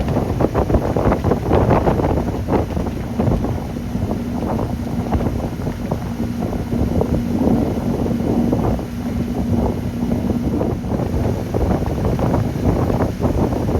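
Sea Ray 260 Sundeck's 300 hp Mercury engine running steadily under way, a constant low hum beneath heavy wind buffeting on the microphone.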